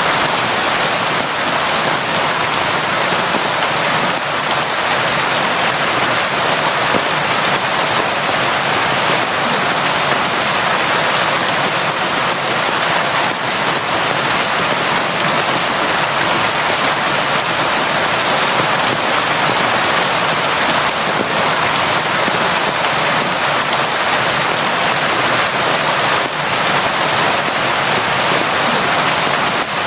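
Steady, constant rain falling on surfaces: an even dense hiss with scattered drop patter and no lulls.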